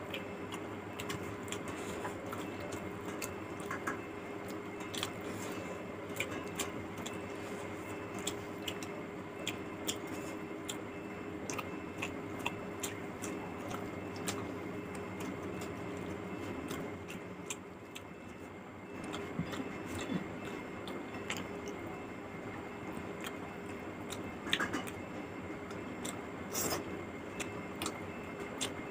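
Close-up eating sounds: chewing and lip smacking of a mouthful of rice and fish curry, with fingers squishing and mixing the wet rice, heard as many short, irregular clicks. A steady hum runs underneath.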